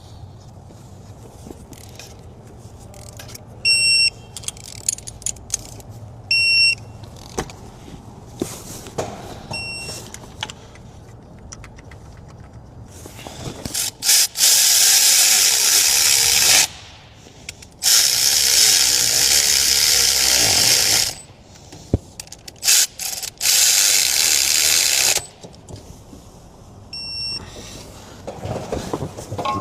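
Three long, loud hissing blasts, each two to three seconds, about halfway through. A few short electronic beeps come earlier and one comes near the end.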